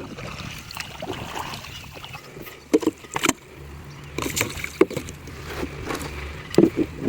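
Irregular splashes and knocks in water around a small boat, the loudest about three seconds in and again near the end, over a low steady rumble.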